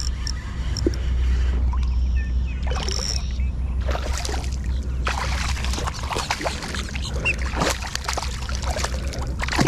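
Water splashing and sloshing against a kayak, busier from about four seconds in, over a steady low rumble.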